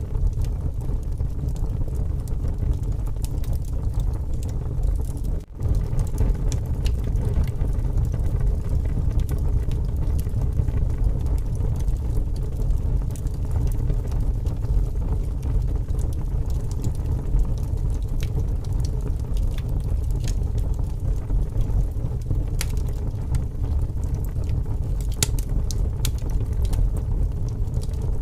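Wood campfire crackling and popping over a strong, steady low rumble of gusting wind. The sound drops out briefly about five seconds in.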